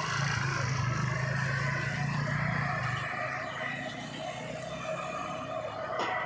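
A diesel truck engine running steadily, growing fainter about halfway through.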